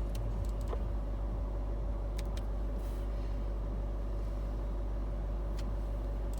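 Range Rover 3.6 TDV8 diesel engine idling steadily, heard from inside the cabin, with a few light clicks.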